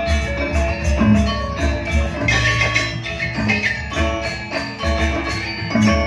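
Live gamelan music accompanying a dance: metallophones ring out quick, bright struck notes over steady low drum beats.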